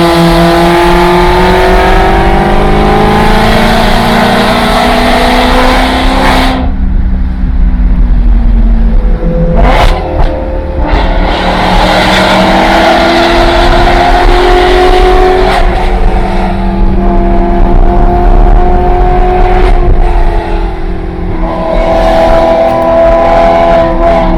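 Supercar engine accelerating hard through the gears: its pitch climbs steadily, drops at each of several upshifts, then climbs again.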